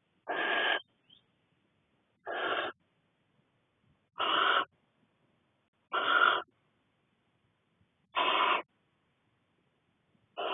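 Barn owl chicks giving their hissing, snore-like begging calls: six short rasps, each about half a second long and spaced roughly two seconds apart.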